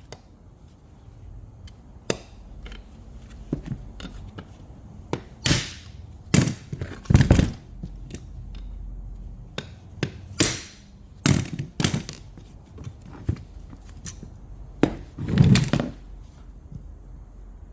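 Irregular knocks, clicks and scrapes of hand work on metal parts with tools, with a few longer rasping strokes among them.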